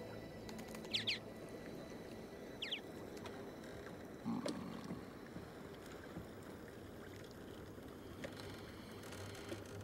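A small bird chirps in short gliding notes, twice in quick succession about a second in and again near three seconds, over a low, steady wash of sea and boat ambience. There is a soft knock about four seconds in.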